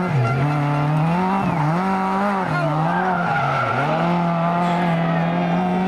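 Rally car engine being driven hard on a stage, revving up and dropping back several times as the driver works the throttle and gears, then holding a steady high pitch for the last couple of seconds.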